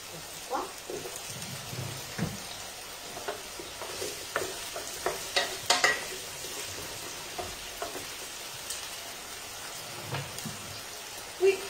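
Diced potatoes sizzling in hot oil as they brown in a frying pan. A wooden spoon stirs them, scraping and knocking against the pan now and then, loudest about six seconds in.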